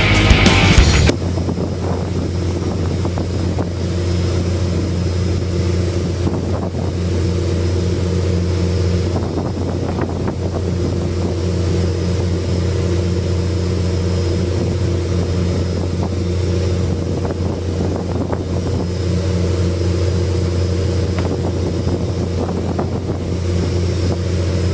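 A squid fishing boat's engine running at a steady drone, with some wind noise on the microphone. A burst of rock music cuts off about a second in.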